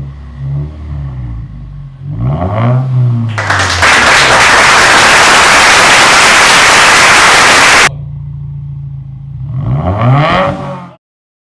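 2018 Subaru WRX's turbocharged flat-four engine, exhaust straight-piped with a muffler delete, idling and blipped up in two short revs. In the middle a loud, harsh rushing noise drowns everything out for about four seconds and stops suddenly. The sound cuts off near the end.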